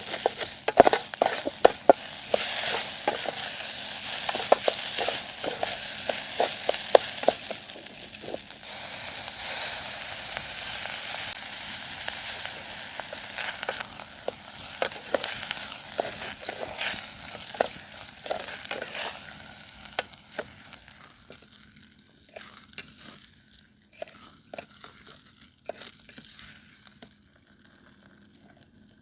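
Food sizzling as it fries in a pan, with many small clicks and taps of stirring. It dies down about two-thirds of the way through, leaving only a few faint clicks.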